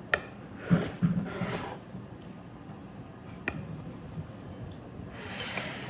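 A knife and utensils clinking against a dish while a microwave-cooked donut is cut into pieces, with a couple of sharp clinks, one right at the start and one about three and a half seconds in.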